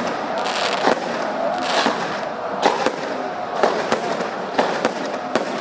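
Fireworks going off: a quick, irregular series of about ten sharp bangs over a steady crackle.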